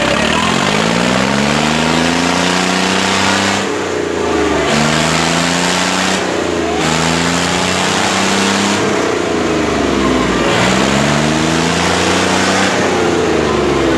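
Tractor diesel engines revving up again and again, about five rising surges, straining under load as the tractors pull against each other in a tug-of-war. A loud, rough noise runs underneath.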